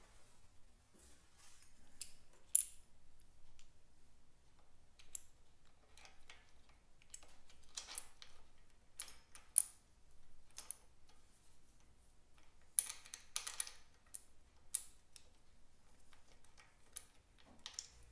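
Scattered light metallic clicks and clinks of hand tools and steel parts being handled during spring-box removal on a Vincent Girdraulic front fork, irregular, with a few sharper clicks standing out.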